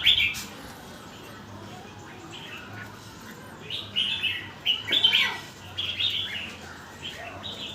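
Red-whiskered bulbul singing, short bright chirping phrases following one another quickly, loudest about four to six seconds in.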